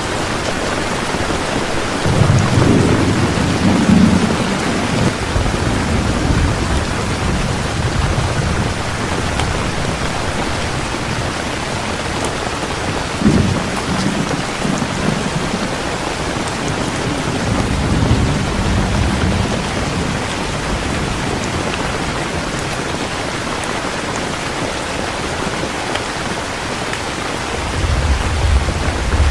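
Heavy rain falling steadily in a thunderstorm, with thunder rumbling low several times: a loud roll about two seconds in, a sharper crack around thirteen seconds, another roll around eighteen seconds and a rumble near the end.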